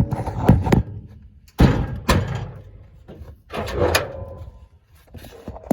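A string of loud metal clunks and bangs from the hood of a 1979 Ford F-150 pickup being worked open. The sharpest bang comes about a second and a half in, with more clunks about four seconds in.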